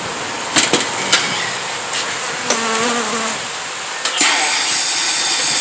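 Honey bees buzzing around an opened colony, with one bee's buzz passing close for under a second near the middle. A few sharp knocks or clicks near the start and again about four seconds in.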